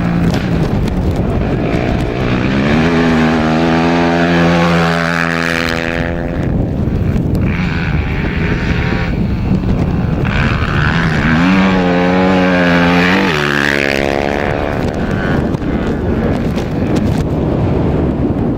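Small high-revving engines of rally machines running at speed, with two passes about 2 s and 11 s in where an engine's pitch climbs and holds before dropping away. Steady engine and road noise underneath.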